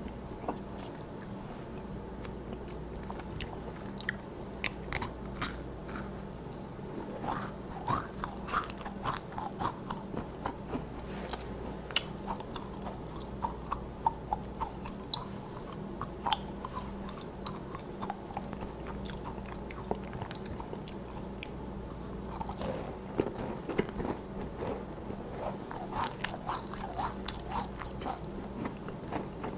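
A person biting into and chewing macarons close to the microphone: crisp crunches of the shells and soft chewing, with many small irregular crackles throughout.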